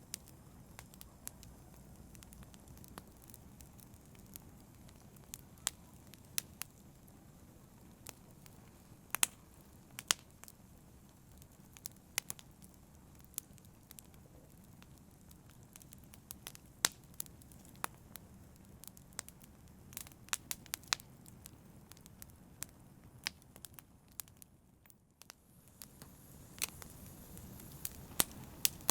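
Wood fire crackling, with frequent irregular sharp pops and snaps over a soft, steady low rumble of burning. The sound drops away briefly near the end before the fire comes back.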